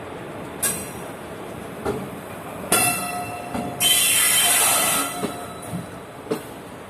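Indian Railways express passenger train running on the rails with a steady rumble and sharp metallic wheel clanks every second or so. About three seconds in, a ringing squeal is followed by a loud hiss lasting about a second.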